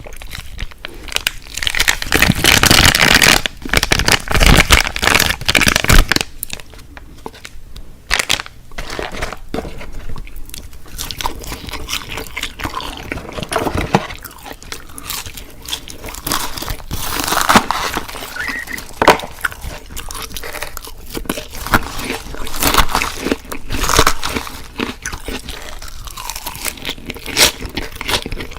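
Close-miked eating of crispy fried food: loud crunching bites and wet chewing, with crackles and sharp snaps throughout. The loudest crunching comes in the first few seconds.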